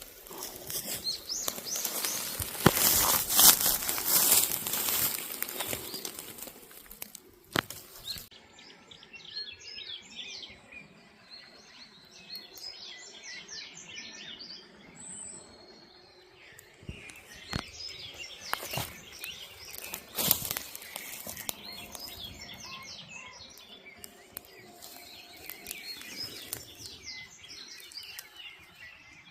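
Small birds chirping over and over. A loud rustling, crinkling noise fills the first several seconds, and a few sharp clicks stand out.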